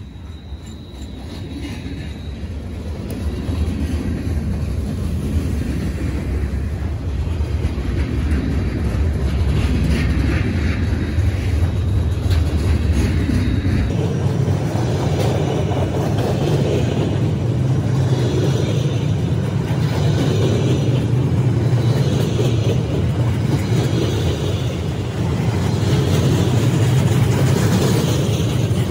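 Freight train cars rolling past, a steady loud rumble of wheels on rail. About halfway through, the sound jumps abruptly higher in pitch because the footage is sped up.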